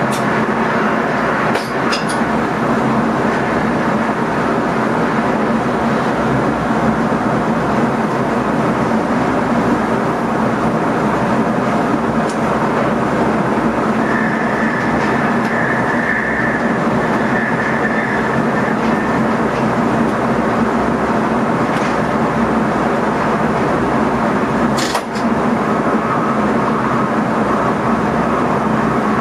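Steady running noise of an NS ICM electric multiple unit heard inside the driver's cab, with a few sharp clicks, the loudest about 25 seconds in. A faint high tone comes and goes midway and returns near the end.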